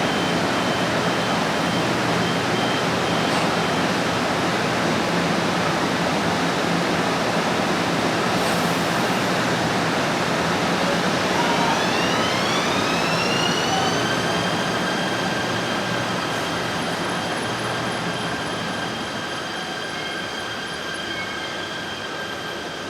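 KTM train pulling out of the platform: a steady rumble and hiss of the moving train, with a whine that rises in pitch about eleven seconds in and then holds steady as it gathers speed. The sound slowly fades toward the end as the train moves away.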